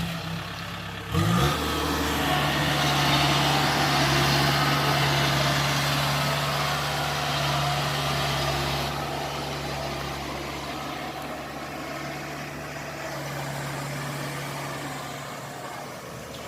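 Kubota DC-70 combine harvester's diesel engine just started: it picks up speed about a second in, then runs steadily under a loud rushing noise that eases off in the second half.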